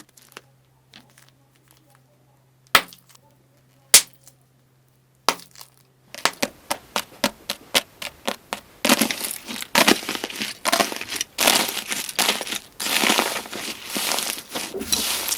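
Slime being squeezed and pressed: three or four separate sharp snaps over the first six seconds, then dense crunching and crackling from about six seconds in that grows busier a few seconds later.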